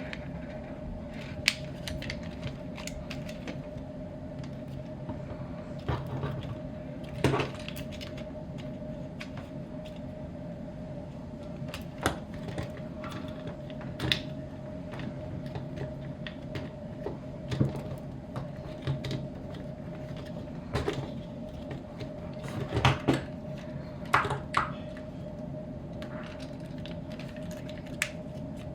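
Hard plastic toy parts of a Transformers figure clicking, knocking and rattling as it is handled and transformed, with scattered sharp clicks over a steady background hum.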